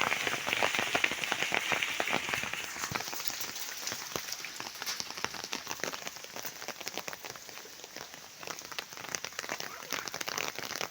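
Hailstones pelting a hard surface in a hail shower: a dense clatter of separate hits over a rain-like hiss, heaviest in the first few seconds, thinning out in the middle and picking up again near the end.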